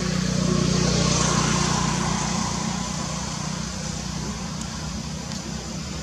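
A motor vehicle going by, its noise building to a peak about a second in and then slowly fading, over a steady low engine hum.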